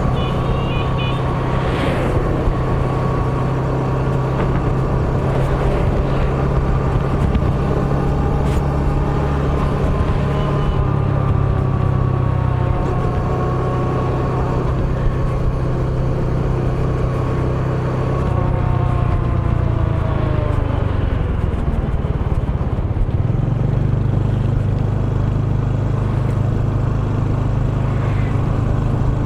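A small motorbike's engine running while riding, with road and wind noise. About two-thirds of the way through, the engine pitch falls steadily as the bike slows, then it settles back to a steady run.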